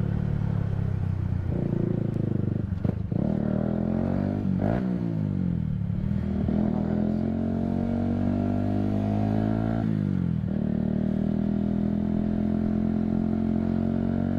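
Motorcycle engine running under way. Its pitch dips about five seconds in, climbs steadily for about four seconds as it accelerates, then drops sharply about ten seconds in at a gear change and holds steady.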